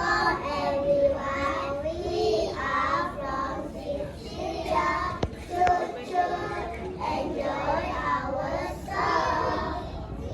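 A group of young children singing together in unison, a choo-choo train song.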